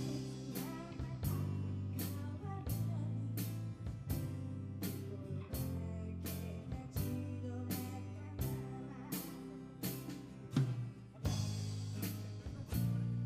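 A live rock band playing: a drum kit keeping a steady beat of about two strikes a second, with bass and electric guitar.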